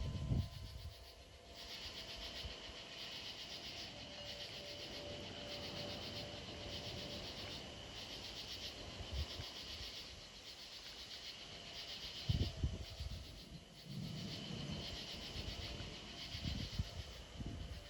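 Night insect chorus shrilling in regular pulses, roughly one a second. Low rumbles, likely wind on the microphone, come about twelve seconds in and again near the end.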